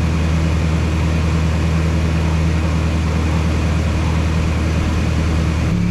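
1996 Toyota Tacoma's engine idling steadily while its cooling system is burped of air pockets after a coolant refill. Near the end the engine note steps up abruptly to a higher pitch.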